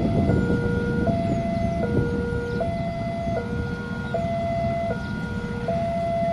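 Railway level-crossing warning alarm sounding, a steady two-tone signal that switches between a higher and a lower note about every three-quarters of a second, warning that a train is approaching. A low rumbling noise lies under it.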